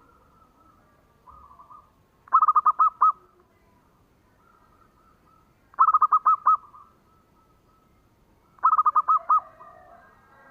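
Zebra dove (perkutut) cooing: three phrases a few seconds apart, each a quick run of about five or six ringing notes, with fainter bird calls in between.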